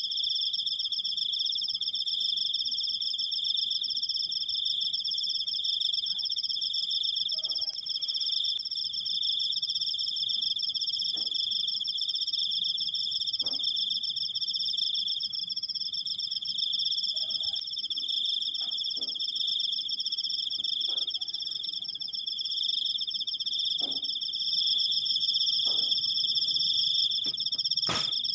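Cricket trilling in one long, steady, unbroken high-pitched trill. A single sharp click sounds near the end.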